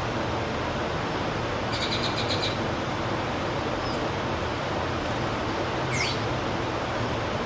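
Wild birds calling over a steady rushing hiss: a quick run of high chirps about two seconds in, and a single sweeping whistle about six seconds in.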